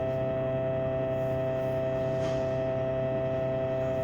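Steady electrical hum from a mains-powered appliance: a low drone with several steady tones above it, unchanging throughout.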